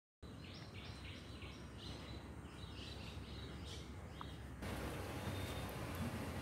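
Birds chirping in a quick string of short, repeated calls over outdoor background noise. About four and a half seconds in, a louder, even hiss comes in and the chirping fades under it.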